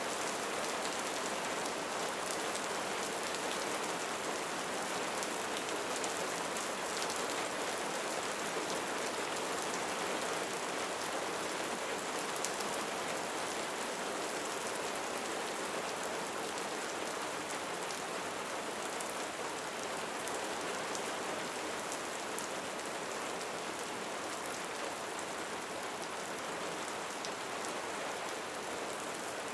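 Steady rain falling on a roof, an even hiss with faint individual drop ticks.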